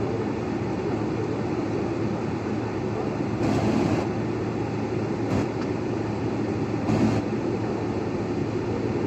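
Steady hum inside an airliner cabin on the ground before takeoff, from the engines and the air conditioning, with three brief bumps in the middle.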